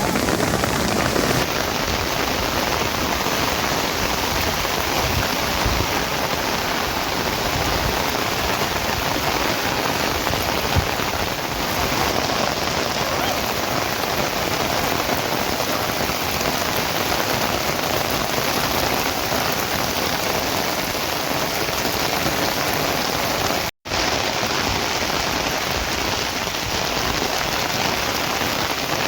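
Steady rain falling, an even hiss without let-up, broken once by a split-second gap in the sound near the end.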